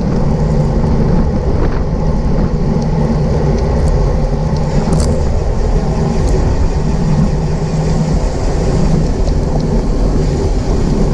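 Steady, loud wind rush buffeting a bicycle-mounted camera's microphone while riding at racing speed, heavy in the low rumble.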